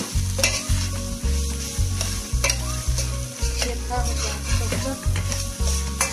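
Spoon stirring and scraping through beef, onion, peppers and tomato paste frying in oil in a metal pot, over a steady sizzle, with repeated scrapes of the spoon against the pot's base.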